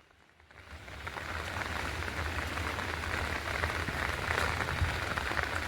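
Heavy rain falling steadily, a dense patter of drops. It fades in from near silence over the first second.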